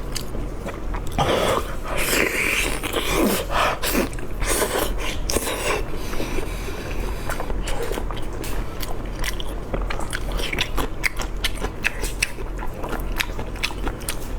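Close-miked biting and chewing of food, with many crisp crunching clicks. The crunching comes thick and fast toward the end.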